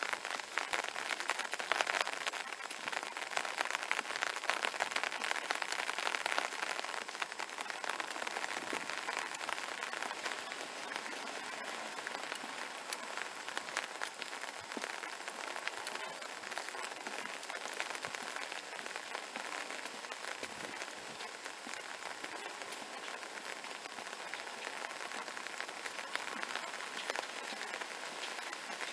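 Steady rain falling: a dense, even patter of drops, a little heavier in the first several seconds.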